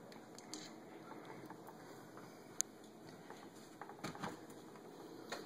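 Quiet room tone with faint hiss and a few soft clicks and taps: one sharp click about halfway through, and a small cluster of taps near the end.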